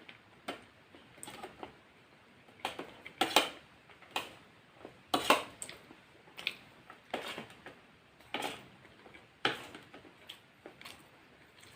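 Close-up eating sounds of a fried chicken, rice and mashed potato meal: irregular sharp clicks and crackles, about a dozen in eleven seconds, with the loudest a little after three seconds and again just after five.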